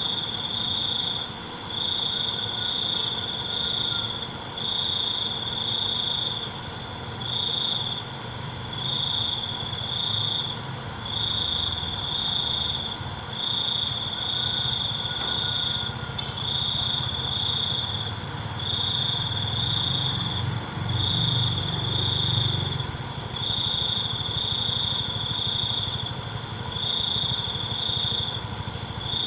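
Crickets chirping in a chorus: one loud high trill repeating in bursts of about a second, with fainter pulsing insect calls and a steady high-pitched drone behind it. A faint low rumble runs underneath, a little stronger about three-quarters of the way in.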